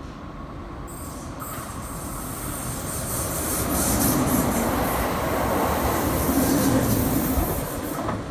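Red RBS regional electric train runs along a curved station platform and past close by, its wheels squealing on the curve. The sound builds from about two seconds in, is loudest around four to seven seconds, then falls away.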